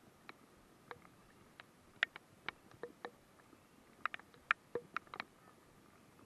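Light, irregular ticks and taps, a couple of dozen over several seconds, from raindrops striking close to the microphone, over a faint steady hiss of rain.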